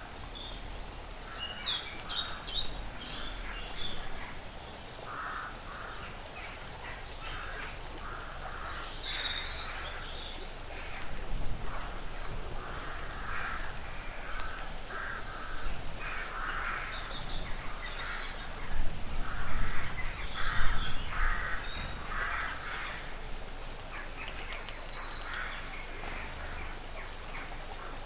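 Woodland ambience with wild birds calling: a few high chirps in the first seconds, then a long series of short, harsh calls through the middle, over a steady outdoor background.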